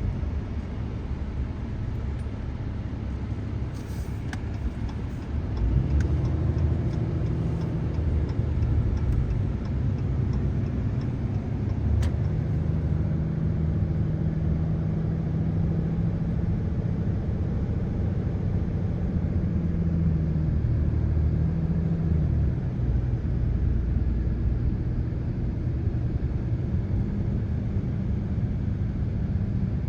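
A vehicle driving, heard from inside: a steady low engine and road rumble whose pitch shifts now and then. For several seconds in the first half there is a run of light, evenly spaced ticking.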